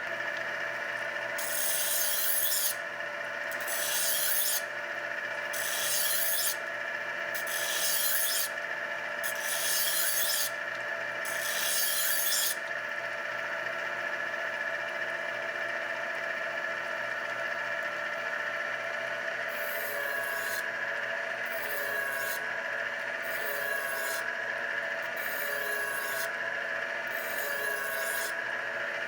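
Knife blade being drawn through the spinning honing wheels of a Tru Hone HR8 Honer, over the steady hum of the honer's motor. There are six rasping strokes about two seconds apart in the first half, then a run of fainter, wavering strokes near the end.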